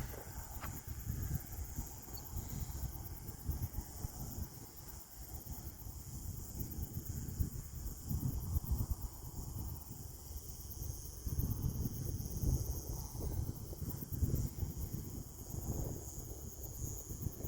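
Crickets chirping steadily in a high, even trill, with gusty wind buffeting the microphone in irregular low rumbles.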